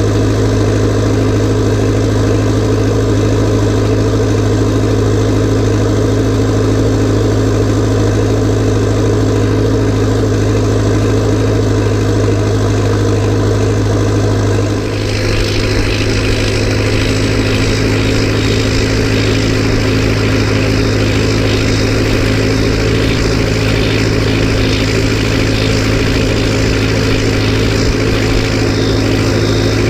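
Massey Ferguson 590 tractor's turbocharged, straight-piped diesel engine running steadily. About halfway through the sound changes suddenly: a hiss and a wavering high whine join the engine note.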